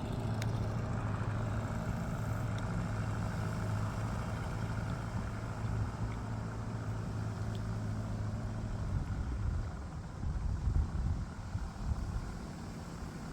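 The cruiser's engine running steadily with a low hum. About ten seconds in the sound grows louder and uneven for a couple of seconds. The engine is running without losing power now that its spark fault is fixed.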